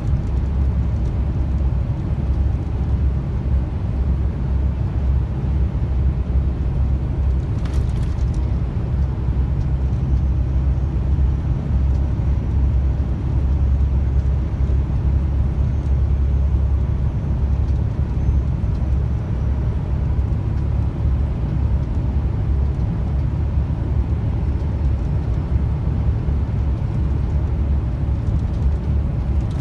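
Truck cab interior while driving: the engine runs steadily with road and tyre noise, and there is a brief rattle about eight seconds in.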